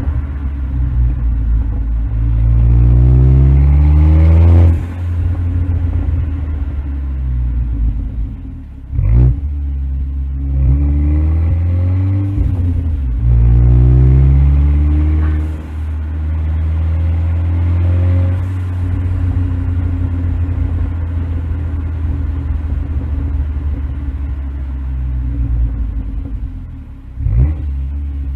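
A K04-turbocharged Audi A4 B8 engine and exhaust while driving: several times the engine pulls up in pitch through a gear, then drops off sharply at the shift, before settling into a steady cruise. Two sharp bangs stand out, one about nine seconds in and one near the end.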